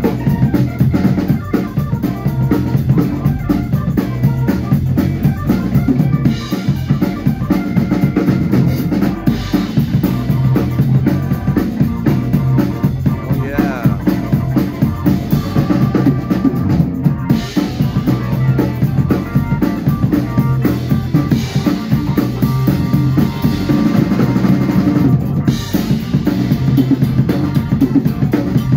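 Band music with a drum kit driving a steady, busy beat of bass drum and snare over sustained pitched instruments.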